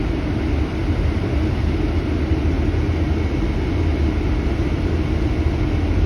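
Steady low rumble of road vehicle noise, even throughout with no distinct events.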